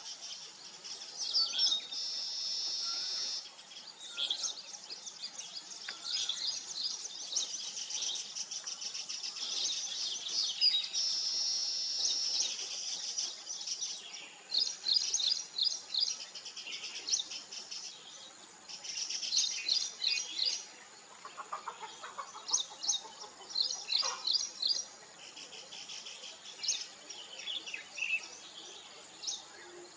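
Weaver birds chattering: many quick chirps and rapid trills, with long buzzy stretches of song twice, over a steady high thin whine.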